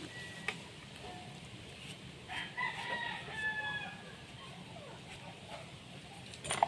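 A rooster crowing once, a little over two seconds in. There is a light click early on and a sharp click or knock near the end.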